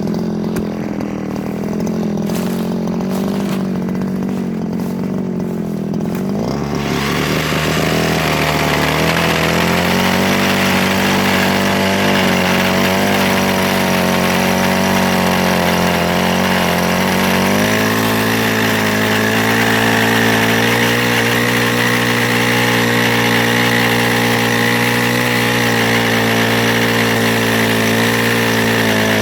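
Mini chainsaw idling, then revved up about six seconds in and held at high speed, as it does when cutting soft wood. Its note shifts again about two-thirds of the way through and then stays steady.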